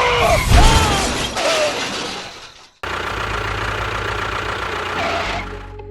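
A loud crash-like noise over a running engine, cut off suddenly just before halfway. It is followed by a steady engine hum.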